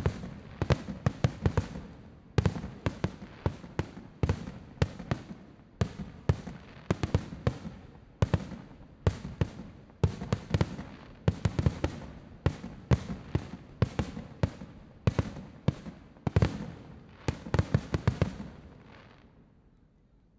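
Fireworks bursting overhead in quick succession, several loud bangs a second, each with a short rumbling tail. The volley thins out and stops near the end.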